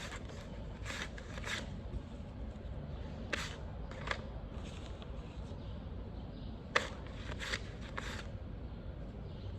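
Paper banknotes being handled, giving scattered short crisp rustles and flicks, the sharpest about seven seconds in.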